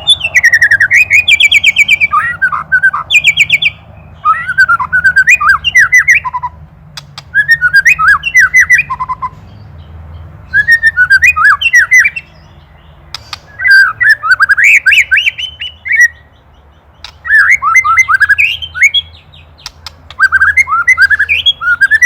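White-rumped shama (murai batu) giving ketrekan, its agitated rattling call: about seven loud phrases of rapid, sweeping notes, each lasting about two seconds, with short pauses between them.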